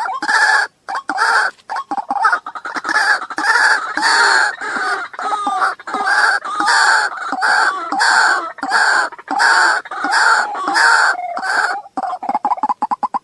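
Waterhen calling: a long, unbroken run of loud, harsh calls repeated about two a second.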